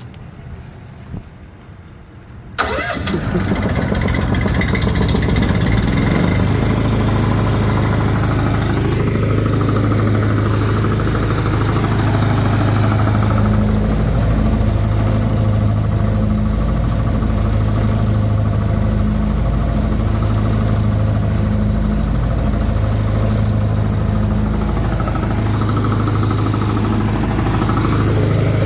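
Small gasoline engine on a service truck's air compressor starts on choke about two and a half seconds in and then runs steadily, its note slowly rising and falling.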